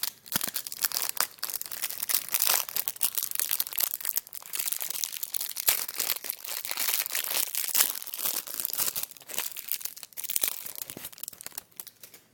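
A trading-card pack wrapper being torn open and crinkled by hand: a continuous dense crackling and rustling that dies away near the end.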